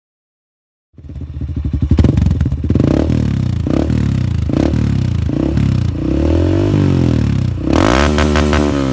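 Honda CRF150L's single-cylinder four-stroke engine through a Norifumi shorty aftermarket exhaust, the sound coming in abruptly about a second in. The throttle is blipped about five times, roughly a second apart, then given a longer rev and another near the end.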